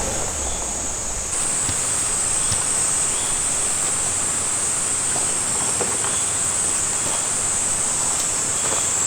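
Cicadas singing in a steady high-pitched chorus over a constant rushing wash of noise. The chorus grows louder about a second in.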